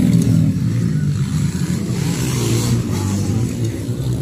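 Motocross dirt-bike engines running, their pitch shifting up and down with the throttle.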